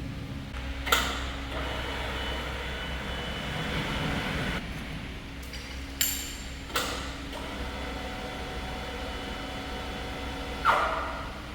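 Sharp metallic clanks, four of them spread out, each ringing briefly, over a steady low mechanical hum: heavy metal parts being knocked and handled in an engineering workshop.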